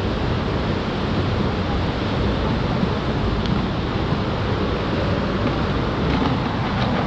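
Steady rushing of falling water, an even noise that stays constant throughout.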